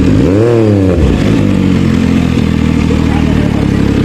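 Superbike engine idling steadily, with one quick throttle blip about half a second in that rises and falls in pitch.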